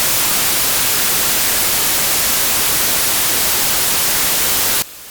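Television static hiss, the steady noise of an untuned TV screen, which cuts off suddenly near the end.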